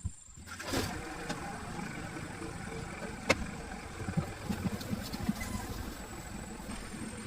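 An engine running steadily, with one sharp knock about three seconds in.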